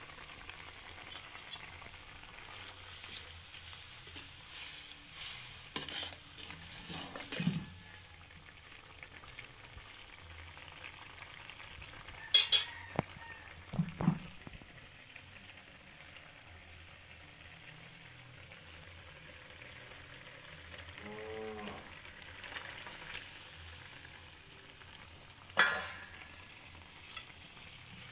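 Curry masala sizzling steadily as it fries in an aluminium kadai, with a few sharp metal clanks of a spatula against the pan; the loudest clanks come about halfway and near the end.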